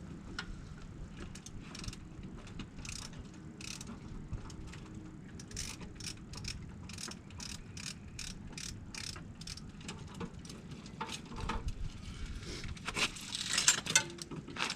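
Half-ton chain hoist ratcheting, a series of irregular metallic clicks about one or two a second, louder and quicker near the end.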